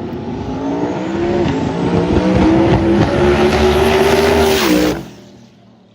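Rear-wheel-drive Corvette drag race car making a full-throttle pass, its engine note climbing in pitch and getting louder, then cutting off abruptly about five seconds in.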